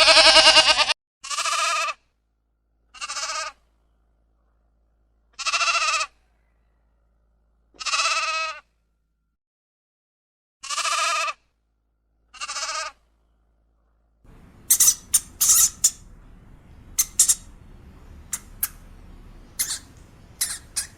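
Bleating: a loud bleat ends about a second in, then six separate bleats follow, each under a second long, with silence between them. From about fourteen seconds, a run of short, sharp, high squeaks plays over a faint hiss.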